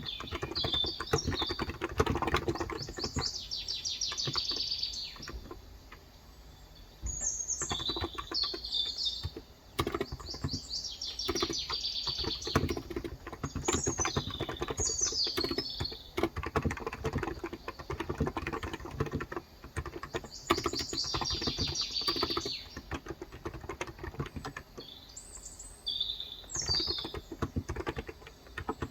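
Continuous typing on a Cox Endeavor electrocapacitive (non-contact) tenkeyless keyboard with light 35 g switches, a steady patter of keystrokes with a brief pause about six seconds in. A bird sings in the background: a fast trilled phrase about every nine seconds, with short chirps between.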